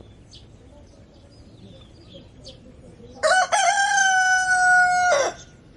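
A rooster crows once, about three seconds in: a short opening note, a brief break, then a long held call that drops away at the end. Faint small-bird chirps come before it.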